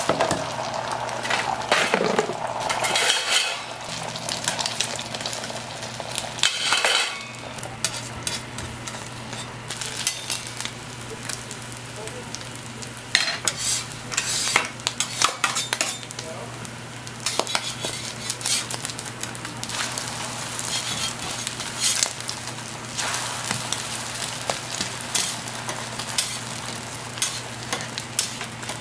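Egg batter with shredded carrot and scallion frying on a flat steel griddle, with a steady sizzle. Frequent sharp clinks and scrapes of metal utensils on the griddle cut through the sizzle.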